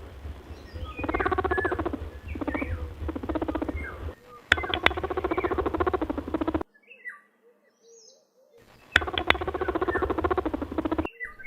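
Rabbit squeaking in a series of rapid, buzzing, pulsed calls, with a pause of about two seconds about two-thirds of the way through.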